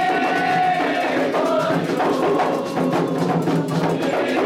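Candomblé ritual music: hand drums and a struck bell or block keep a dense, fast rhythm under singing voices.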